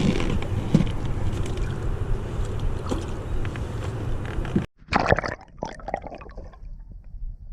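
Steady low rumble with a few light knocks, then after an abrupt cut, water splashing and gurgling in a short burst that fades out.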